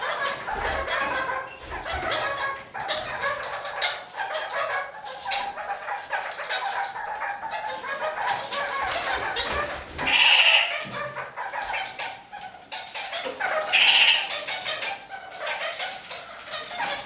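Red-crowned kakariki (parakeets) chattering continuously, with two loud, sharp calls about ten and fourteen seconds in.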